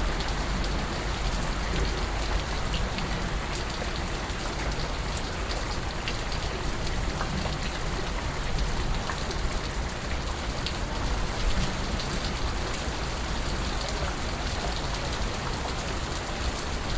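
Steady rain falling, a dense even hiss with scattered individual drip ticks.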